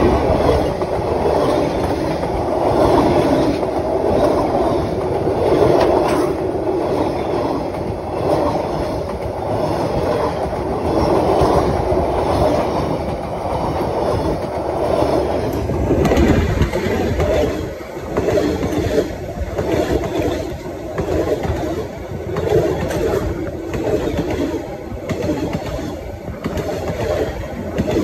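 Vietnam Railways passenger coaches running past at speed close to rail level: a loud, continuous rumble of steel wheels on the rails. From a little past the middle on, regular clickety-clack beats of the wheels come through.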